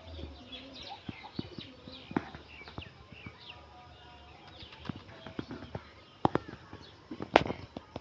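Birds chirping in many short, quick calls, with a few sharp clicks near the end.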